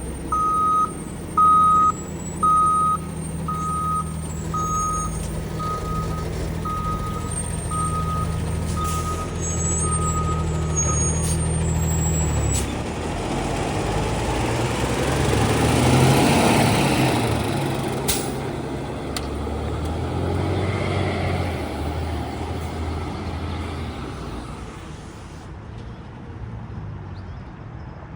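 Heavy truck backing up, its reversing alarm beeping evenly over the running diesel engine; the beeps fade away and stop about eleven seconds in. Then a louder rushing noise swells, peaks midway with a sharp click near its end, and slowly fades.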